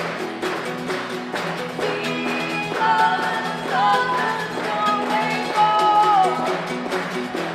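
Live band performing a song with a steady beat; a singing voice comes in about three seconds in, holding and bending notes for a few seconds.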